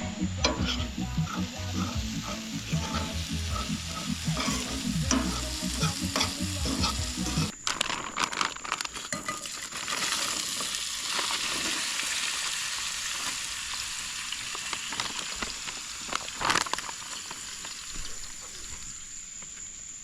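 Food frying in a hot pan, a steady sizzle that swells about eight to ten seconds in. Low rumbling knocks in the first seven seconds stop abruptly.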